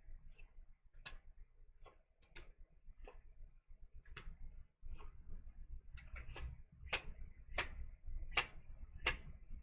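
Tarot cards being sorted and laid down one by one: a run of sharp, irregular clicks that grow louder in the second half.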